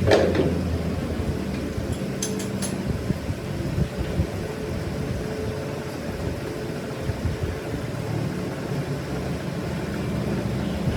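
A machine runs with a steady low hum. At the start there is a sharp metallic knock that rings briefly, and a few light clicks come about two seconds in.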